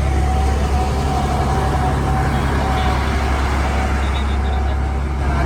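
A motor vehicle's engine running steadily: a constant low rumble with a thin, steady whine above it.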